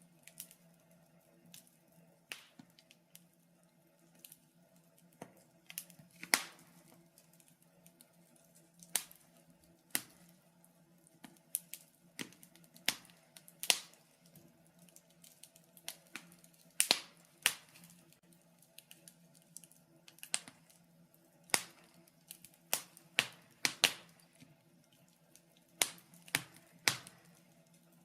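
Wood fire crackling in a fireplace: irregular sharp pops and snaps, some louder clusters near the middle and later on, over a faint steady low hum.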